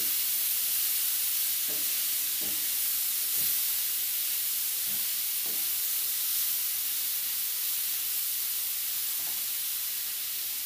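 Long beans and pork belly sizzling in a frying pan with a steady hiss, while a wooden spatula stirs them, giving soft scrapes and knocks now and then.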